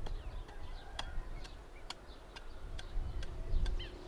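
A clock ticking steadily, about twice a second, with short bird chirps that come more often near the end.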